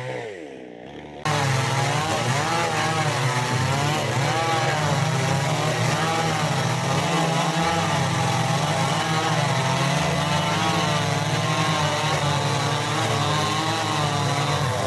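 Chainsaw running hard as it cuts into wood, starting abruptly about a second in, its engine pitch wavering steadily under load.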